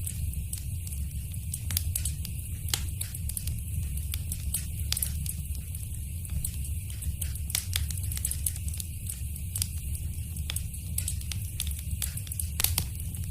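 Wood fire crackling in a fireplace: irregular snaps and sharp pops, a few of them louder than the rest, over a steady low rumble of burning.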